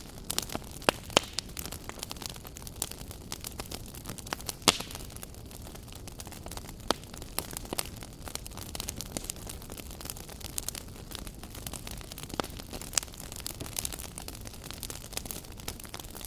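Wood fire burning in a fireplace, crackling with irregular sharp pops over a steady low rumble of the flames; the loudest pop comes about four and a half seconds in.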